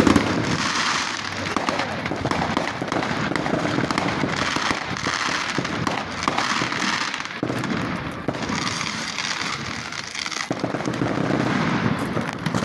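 Fireworks going off: a dense, continuous crackle of many small sharp pops, with one loud bang right at the start.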